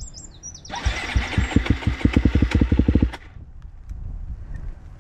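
Motocross bike engine running in a burst of about two seconds, its individual firing pulses plainly spaced, then dropping away suddenly about three seconds in.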